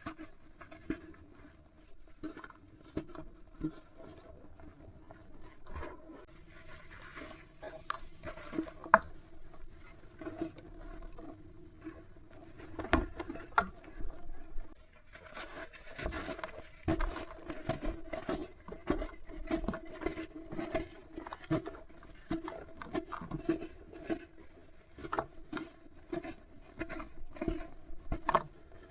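Dry material crumbling and breaking apart in a stream of small irregular crackles and scrapes, growing busier and louder about halfway through, over a faint steady hum.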